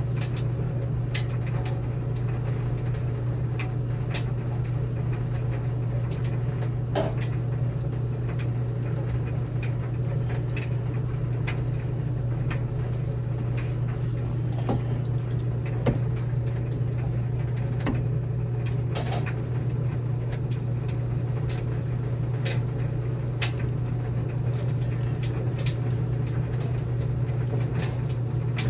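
Midea top-load washing machine filling with water on its extra heavy setting: a steady low hum with a faint rush of water and scattered small clicks and taps.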